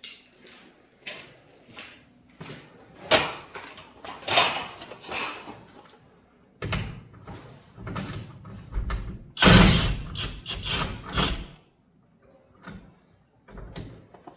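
Irregular knocks, clanks and thuds of metal hardware being handled and fitted on a sectional garage door. The loudest cluster comes about two-thirds of the way through.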